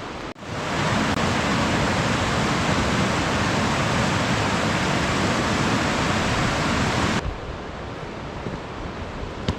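Loud, steady rush of a waterfall. It starts suddenly just under a second in and cuts off about seven seconds in, leaving quieter outdoor noise.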